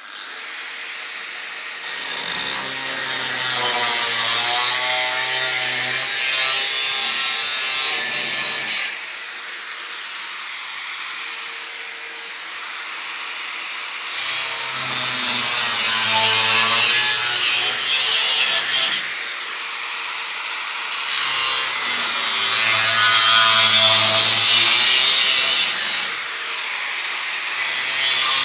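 A power tool working sheet metal in three long passes of several seconds each, quieter between them, its pitch wavering as it bites.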